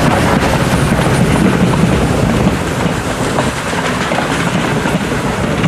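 CFR 231.065 steam locomotive and its train running, a loud steady noise.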